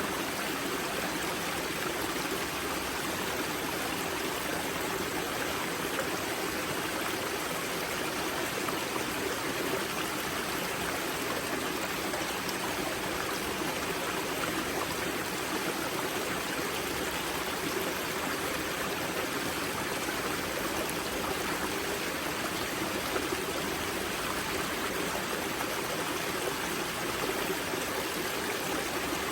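Water of a karst spring's outflow running and splashing over rocks, a steady rushing with no change.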